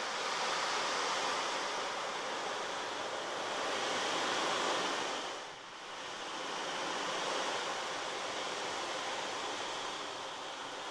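A rushing, surf-like noise that swells and eases like waves washing in, dipping briefly about five and a half seconds in before building again.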